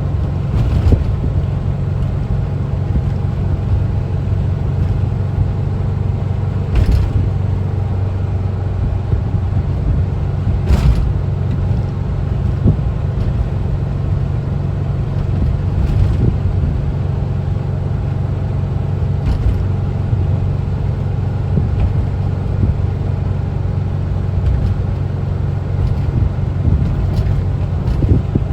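1974 Volkswagen Westfalia camper bus driving, its air-cooled flat-four engine running at a steady low drone, with several sharp knocks along the way.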